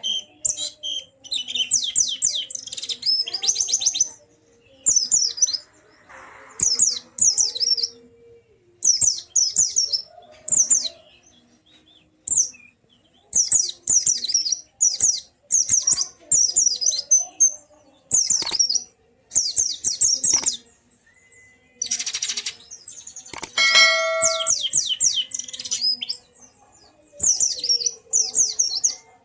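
White-eye (pleci) singing its 'ngalas' song: short bursts of fast, high chattering notes, each about a second long, repeated with brief pauses throughout. A brief buzzy note with a steady pitch cuts in about 24 seconds in.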